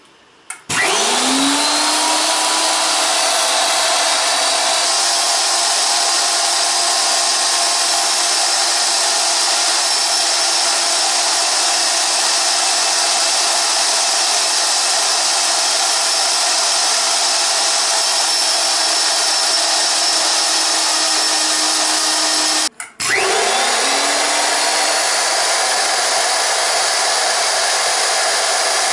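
Tabletop high-speed blade grinding mill starting up with a rising whine, then running steadily at full speed with a loud rushing noise. About 23 seconds in it stops for a moment and spins up again.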